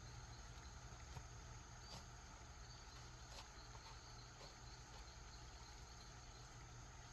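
Near silence, with faint insect chirping over a low steady hum.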